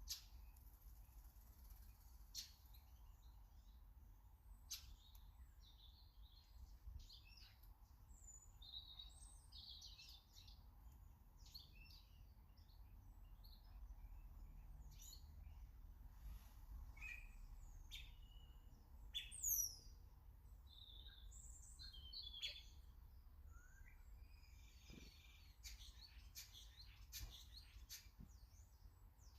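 Faint garden birdsong: small birds chirping and calling in scattered short notes, with one louder, sharp falling call about two-thirds of the way through.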